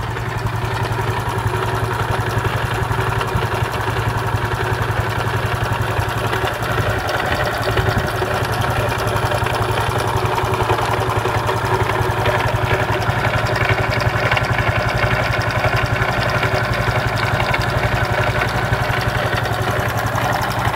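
Honda Pop 110i's single-cylinder engine idling steadily with a clicking, snapping noise from inside the engine. The owner says it is not normal and suspects the tappets or the cam chain.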